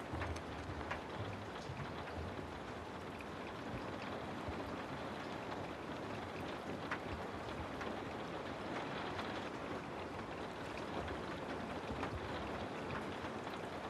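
Steady rain falling, an even hiss with scattered drops ticking against a surface.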